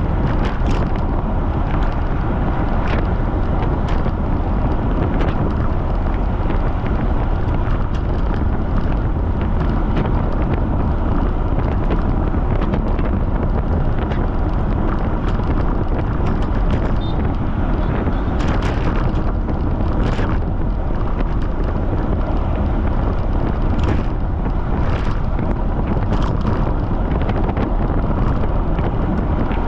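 Wind buffeting a camera microphone on a bicycle ridden at speed, a loud steady low rumble. A few short, sharper noises stand out in the second half.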